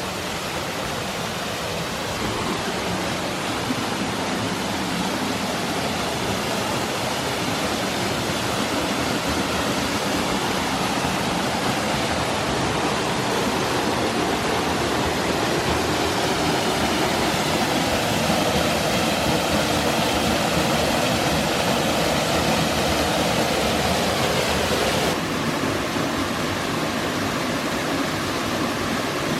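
Small woodland waterfall pouring steadily into a pool, a constant rushing hiss of falling water that drops slightly in level near the end.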